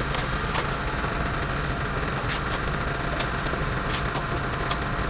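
A vehicle engine running steadily with a low rumble, with scattered sharp ticks on top.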